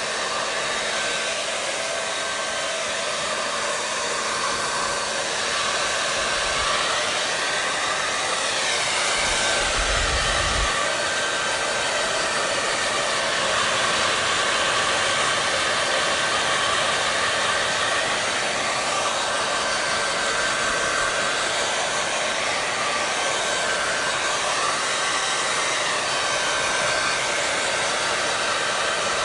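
Hair dryer running steadily: continuous rushing airflow over a steady motor hum, its tone shifting slowly now and then. There is a brief low rumble about ten seconds in.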